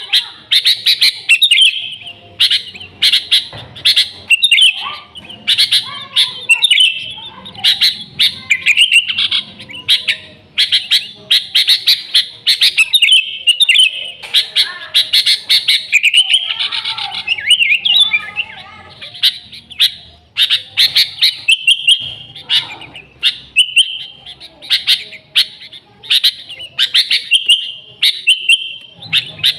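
Sooty-headed bulbul (kutilang) singing loudly and almost without pause, in rapid runs of short, sharp chirping notes.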